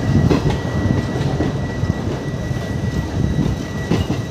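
Diesel-hauled train rolling slowly past: a steady low rumble from the WDG-4G diesel locomotive and coaches, with a few sharp wheel clicks over rail joints.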